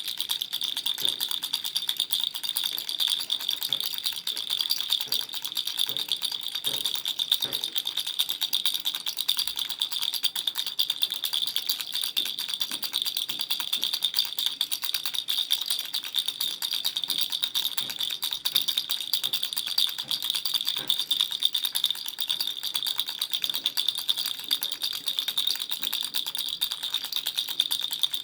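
Baby rattle being shaken continuously: a steady, fast stream of small rattling clicks.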